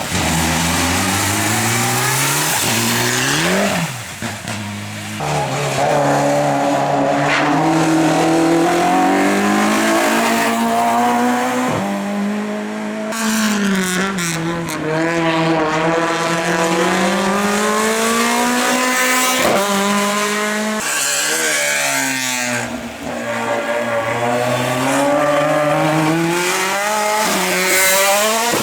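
Race car engines at full throttle on a hillclimb, revving hard, the pitch climbing and dropping sharply again and again with each gear change and lift. The sound changes abruptly several times as one car gives way to the next.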